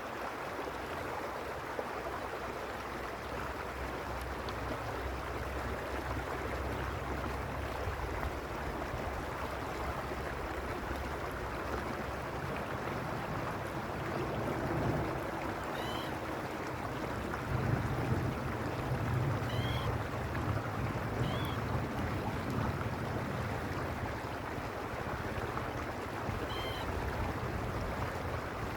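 Water of the Arroyo Uspallata creek running steadily, a continuous rushing babble. A few short high chirps come in the second half, and a low rumble swells briefly near the middle.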